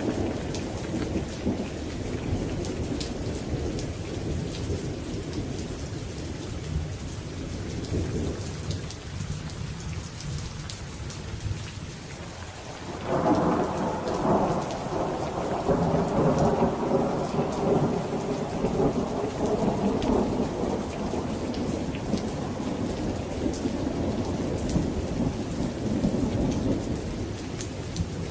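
Steady rain hissing with a patter of drops, under a low thunder rumble that dies away. About 13 seconds in, a loud thunderclap breaks and rolls on for several seconds before slowly fading.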